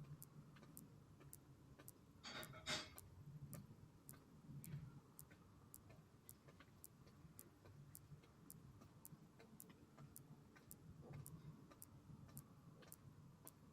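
Faint, steady ticking of a clock with evenly spaced ticks, over a soft low pulsing hum, with one brief louder noise about two seconds in.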